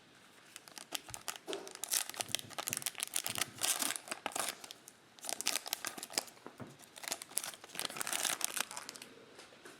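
Plastic trading-card pack wrappers being torn open and crinkled by hand, in two bouts of crackling with a brief pause between.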